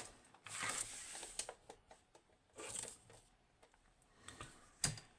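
Handling noise from the just-picked lock and picking tools: two stretches of scraping and rustling, then a sharp click near the end.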